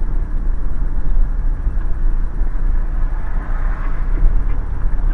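Steady low rumble of a car rolling along the road, heard from inside the cabin.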